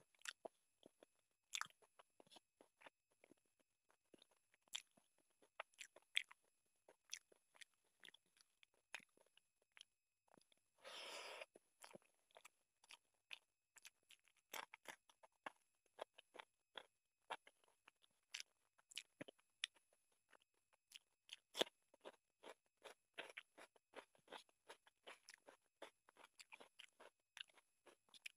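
Close-up eating sounds of chicken curry and rice eaten by hand: wet chewing and lip smacking with many small clicks. About halfway through comes a crunchy bite into a raw green chili, shortly after a brief rushing noise.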